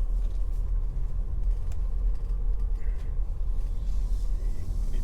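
A vehicle driving slowly, with a steady low rumble of engine and road noise.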